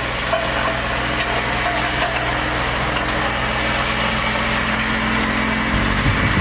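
An engine running steadily: a constant low hum under a wide mechanical rush.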